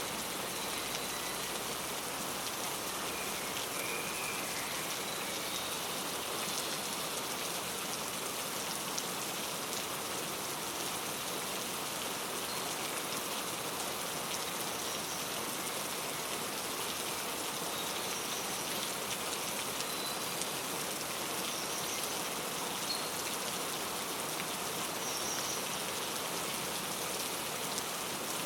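Steady rain falling, with a few faint, short bird chirps now and then over it.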